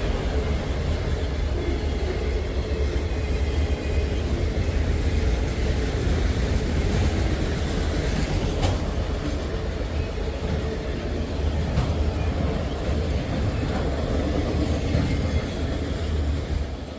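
Freight train cars rolling past at close range: a steady, loud rumble of wheels on rail, with a couple of sharp clicks partway through.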